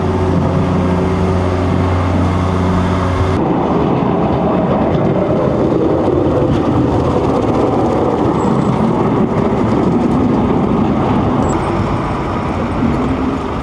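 Motor vehicle running with a steady engine hum. About three seconds in it switches abruptly to a rougher, noisier rumble.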